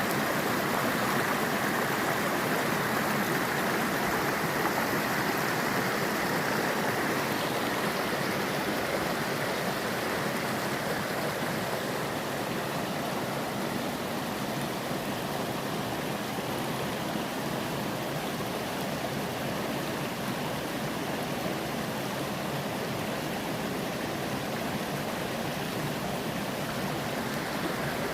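Mountain stream flowing with a steady rush of water.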